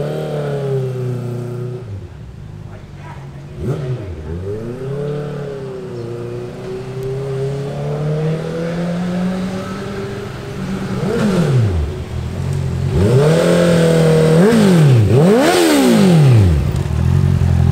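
Honda CBR650F's inline-four engine through an Akrapovic full-system exhaust, running with a slowly wandering steady note, then revved in several quick blips in the second half.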